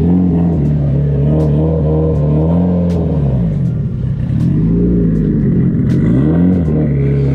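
Nissan 180SX engine running in low revs with the throttle worked: it holds steady, drops off about three seconds in, then is blipped up twice and settles again.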